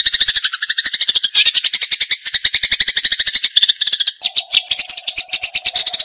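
Eurasian tree sparrows in agitated 'fighting' chatter: a loud, unbroken run of rapid, high chirps. A lower buzzing note joins in about four seconds in.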